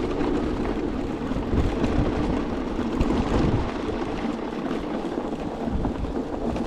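Steady rush of wind on the microphone mixed with the tyre and road noise of an electric two-wheeler riding on a snowy road.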